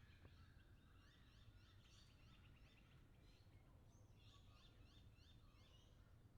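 Faint chorus of Australian birds, many short high chirps in quick repeated runs overlapping one another, over a steady low rumble of background noise.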